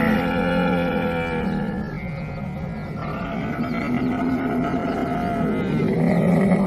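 Camels calling in long, drawn-out, low calls, several overlapping at different pitches. The calls ease off about two seconds in and swell again toward the end.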